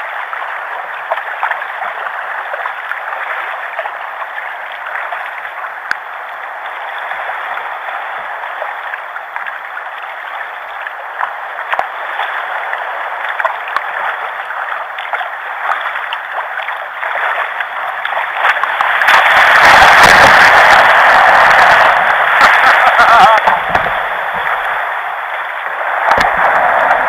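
Sea water sloshing and splashing against a drifting plastic fishing kayak, a steady wash of water noise. About two-thirds of the way through it grows louder and rougher, with a low rumbling under it.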